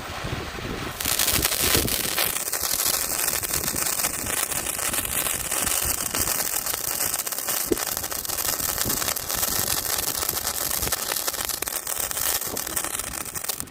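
A spark-spraying firework burning: it catches about a second in and gives a steady loud hiss with fine crackling, then dies away near the end.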